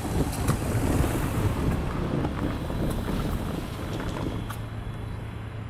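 A train running past: a low rumble that swells about a second in and then fades, with a few sharp clicks. Wind buffets the microphone.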